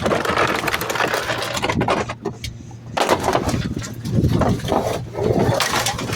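Garbage truck engine running with a steady low hum, under a dense, rapid clatter and banging of trash and cans in the rear loading hopper.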